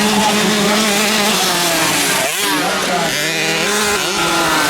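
Motocross bike engines revving, their pitch rising and falling, with a quick sweep in pitch about two seconds in as a bike goes past.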